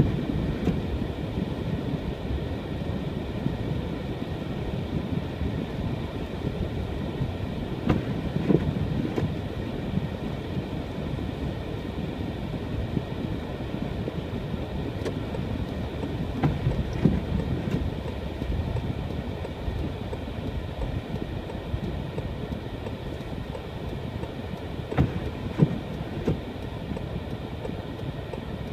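A car driving on a snow-covered road: a steady low rumble of engine and tyres, with a few short knocks and thumps now and then.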